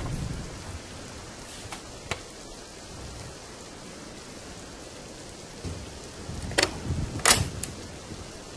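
Steady hiss of rain, with a low rumble dying away at the start and a few sharp knocks, the loudest two close together past the middle.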